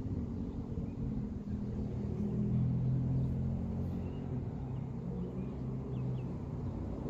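A motor vehicle's engine running with a low, steady hum that grows louder a couple of seconds in and then eases off, with a few faint bird chirps above it.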